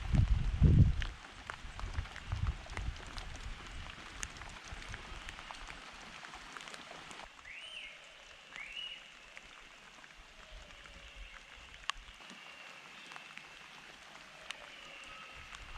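Rain dripping after a storm, scattered drops falling. A loud low rumble fills the first second, and two short rising-then-falling bird calls come about eight seconds in, with fainter calls near the end.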